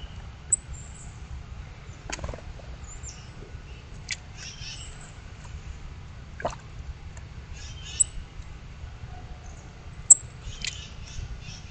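Small birds giving short, high chirps now and then, mixed with a few sharp clicks, over a steady low rumble.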